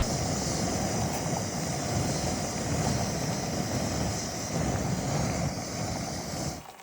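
Wind buffeting the microphone: a steady rushing noise with uneven gusts in the low end, which cuts off abruptly near the end.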